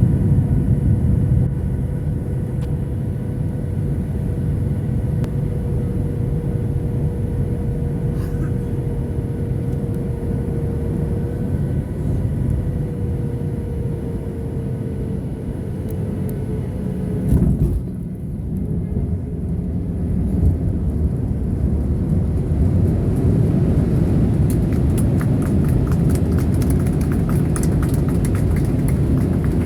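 Cabin noise of a Boeing 737-800 landing: a steady rumble of its engines and airflow with a faint whine that sags slightly in pitch. About seventeen seconds in comes a single thud, the touchdown. The rumble then grows louder, with rapid rattling near the end as the airliner rolls out on the runway.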